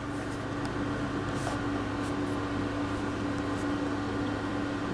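Steady background hum with one even tone, the kind an air conditioner or fan gives in a small room, with a few faint light clicks.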